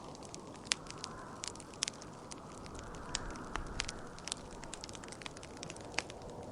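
Wood fire crackling, with irregular sharp pops, over a steady rushing wind that swells and fades.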